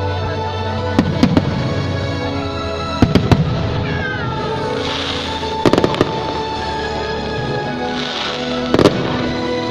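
Fireworks going off, with sharp bangs in quick pairs about every two to three seconds and crackling hiss between them, over background music with sustained notes.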